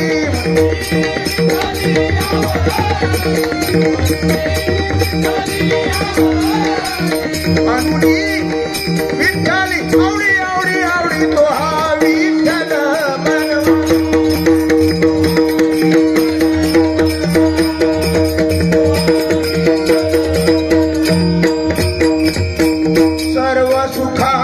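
Bhajan accompaniment playing without sung words: sustained drone notes under a wavering melody line, a steady hand-drum beat, and small hand cymbals clashing on every beat.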